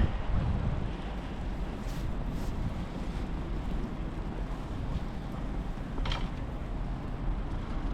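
Blizzard wind rumbling on the microphone over a steady low background hum, with a brief hiss just after six seconds in.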